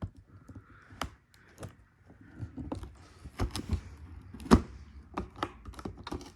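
Cardboard box being opened and handled: scattered knocks and taps, a stretch of rustling in the middle, and one sharp thump about four and a half seconds in.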